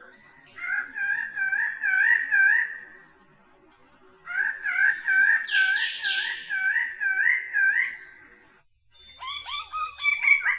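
Bird of paradise calling: two bouts of repeated wavering, rising-and-falling notes, two to three a second, with a short pause between them. Near the end a different, busier run of calls comes in with a steady high whine behind it.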